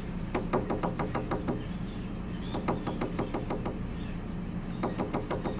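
Quaker parrot calling in rapid, chattering runs of sharp squawks, about eight a second, three runs of roughly a second each.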